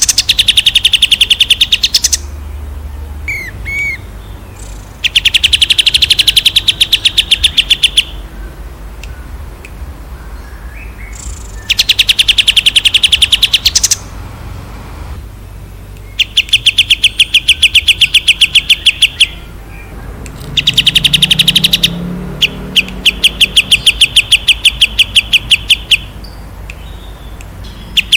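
Songbird singing long rapid-fire phrases of fast, evenly repeated identical notes, about six bursts of two to three seconds each with short pauses between them.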